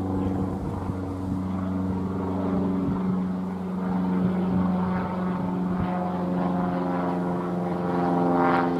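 Train running: a steady low droning hum with higher tones that rise a little and grow louder near the end.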